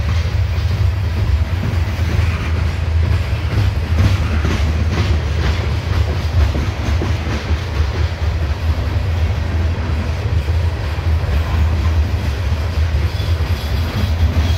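Coal hopper cars of a long CSX freight train rolling past, a loud steady low rumble with the clacking of wheels over the rails.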